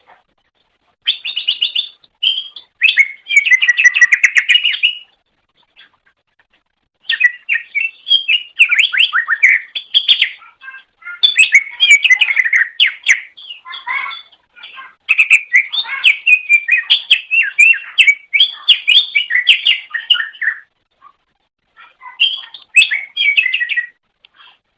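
Cucak ijo (green leafbird) singing in long runs of rapid, varied chirps, whistles and warbled phrases, broken by a couple of brief pauses.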